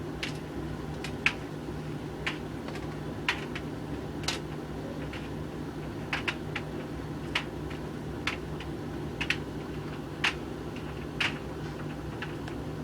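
Hoover VHV680C tumble dryer running with a steady hum as it dries a load of coloured clothes. A light click comes about once a second from the tumbling load.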